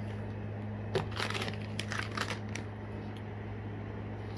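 Packaging crinkling and rustling in short bursts as items from a fishing tackle box are handled, mostly between about one and two and a half seconds in, over a steady low hum.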